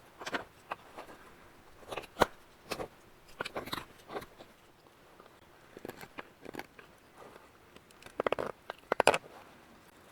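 Knife carving green wood to hollow out the bowl of a kuksa cup: short, irregular cutting and scraping strokes, with a quick run of clicks a little after 8 s.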